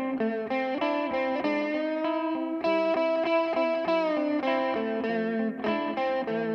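Electric guitar played through a Donner Yellow Fall delay pedal: a melodic line of quickly changing notes, with one note held for over a second midway and bent slightly down as it ends.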